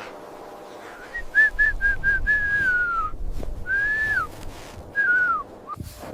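Whistling: a run of short clear notes followed by longer gliding notes that arch and fall in pitch, over a low rumble.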